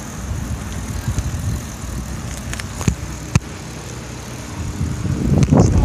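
Wind on the microphone and tyre rumble from a bicycle being ridden, with two sharp clicks about three seconds in and a louder rumble near the end.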